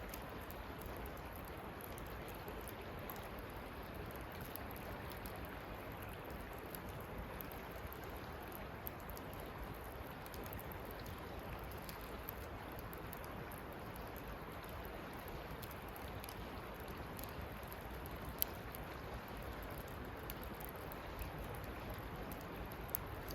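Wood campfire burning, with a steady fine crackle and a couple of sharper pops near the end.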